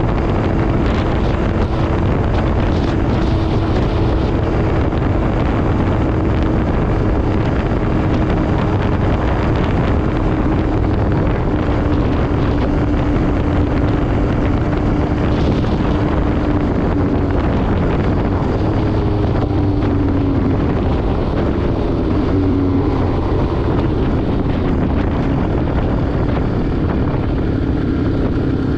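MV Agusta Brutale 800RR's inline three-cylinder engine through an SC Project exhaust, running at a steady cruise with its pitch drifting slowly lower and wavering briefly near the end. Wind rushes over the microphone throughout.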